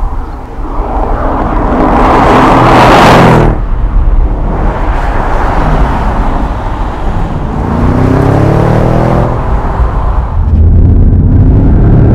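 Audi S7 Sportback's twin-turbo 4.0-litre V8 driving hard. A loud rush of the car passing builds and cuts off suddenly about three and a half seconds in, and the engine note climbs in pitch as it accelerates around eight seconds in.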